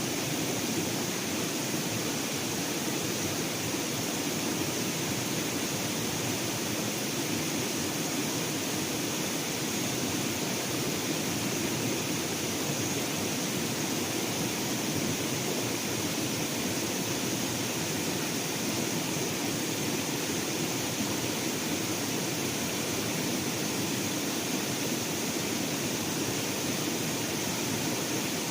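Steady outdoor ambient hiss with a constant high-pitched band running through it and no distinct events.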